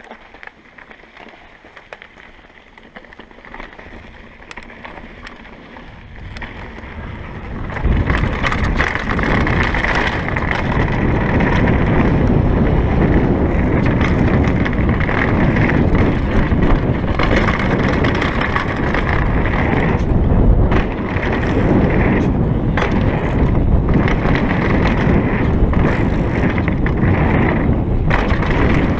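Downhill mountain bike, a Kona Stinky, ridden fast down a dirt trail: tyres rolling over dirt and roots with frequent knocks and rattles of the bike, under wind on the microphone. It starts fairly quiet and builds, turning loud and steady at about eight seconds as the bike picks up speed.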